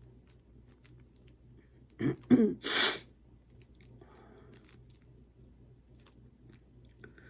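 A person clearing their throat about two seconds in, a short voiced rasp ending in a harsh burst, over faint scattered clicks.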